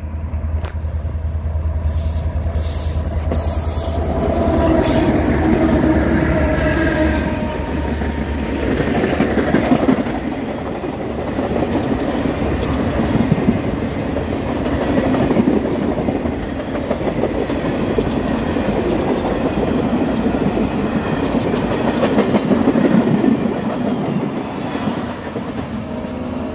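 Freight train passing: the diesel locomotives run by loudly with a deep engine hum for the first several seconds. A long string of loaded wagons follows, rolling past with a steady rumble and clickety-clack of wheels over the rail joints.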